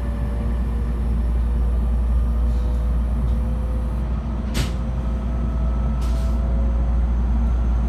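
JR West 223-series electric train car giving a steady low rumble, with a short sharp hiss about four and a half seconds in and a fainter one about a second and a half later.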